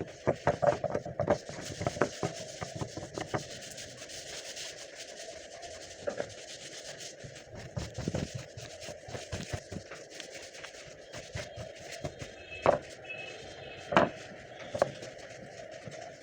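Hand work on wood: a quick run of taps and knocks, then steady rubbing or scraping, with three louder knocks near the end.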